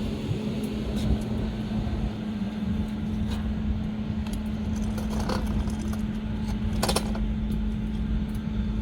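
A steady low rumble with a constant hum, broken by a few light clinks and knocks like metal and wood being handled.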